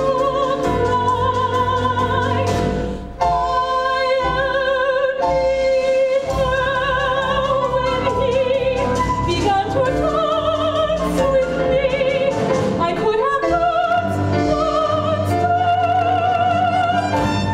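Female soprano singing a musical-theatre song in a full, operatic style with wide vibrato, held notes over a pit orchestra's accompaniment.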